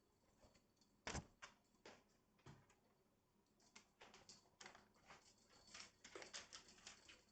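Faint, irregular light clicks and scratches, with one sharper knock about a second in and a denser run of them from about four seconds on.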